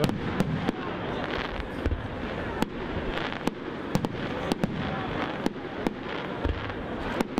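Aerial firework shells bursting overhead in an irregular string of sharp bangs, about two a second.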